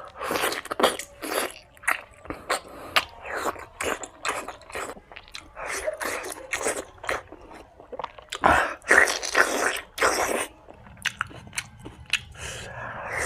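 Close-miked eating: a person biting and chewing spicy mutton fat with rice and gravy, wet mouth noises and small clicks coming in uneven bursts, loudest a little past the middle.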